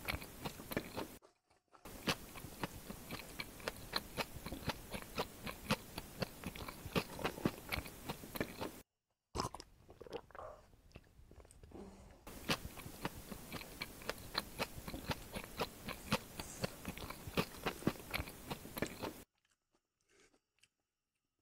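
Close-miked chewing and crunching of raw onion with the mouth, a dense run of crisp crackles broken twice by brief silences, stopping near the end.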